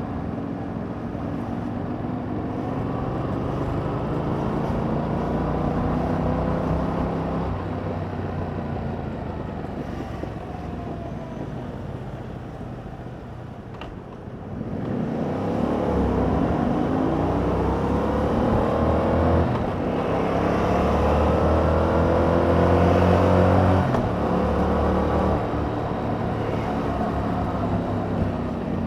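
Yamaha MT-07's parallel-twin engine through its stock exhaust, heard from the bike while riding: it pulls up in pitch, rolls off and slows to a low point about halfway, then accelerates hard again, climbing through a couple of upshifts.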